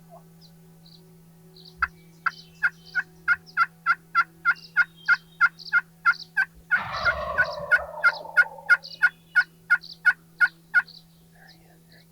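A long, even run of turkey yelps, about three notes a second, with a wild turkey gobbler's gobble breaking in over them for about a second midway.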